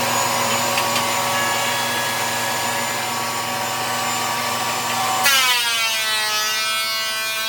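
Electric power saw running at full speed with a steady motor whine. About five seconds in, a louder ringing whine starts, its pitch sagging as the blade cuts into wood under load.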